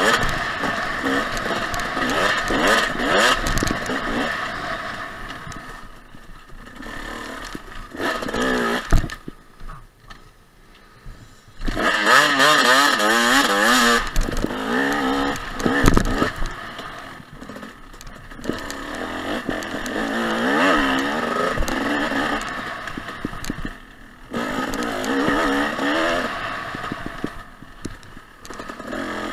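Two-stroke dirt bike engine, a 2014 Husqvarna TC 250, revving up and down as it is ridden over trail, with the throttle chopped and the engine nearly quiet for a couple of seconds about ten seconds in. Sharp knocks and clatter from the bike bouncing over bumps come through now and then.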